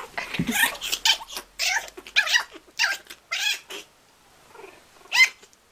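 Kitten mewing in a quick string of short, high-pitched cries while tussling with a puppy, then a pause and one louder mew near the end.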